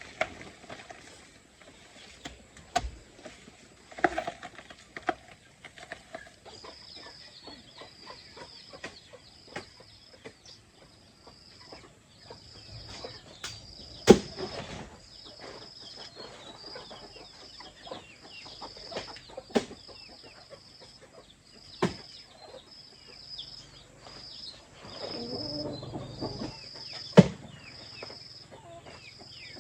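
Chickens clucking, with sharp knocks now and then. From about a quarter of the way in, a high-pitched call repeats roughly once a second.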